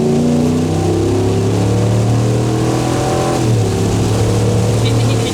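Ram 1500's 5.7-litre Hemi V8 accelerating hard, heard from inside the cab. The engine note climbs, drops at an upshift about three and a half seconds in, then holds steady.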